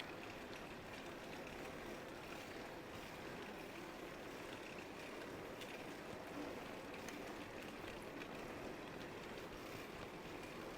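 Steady rushing noise of riding a bicycle: tyres rolling on pavement and moving air, with a few faint clicks.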